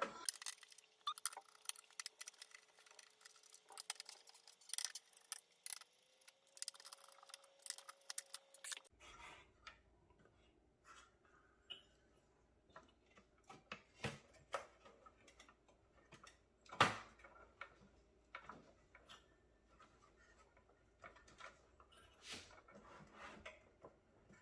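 Faint, irregular small clicks and ticks of screws, screwdriver and metal parts being handled while a desktop PC's motherboard is unscrewed from its case, with one sharper click about 17 seconds in.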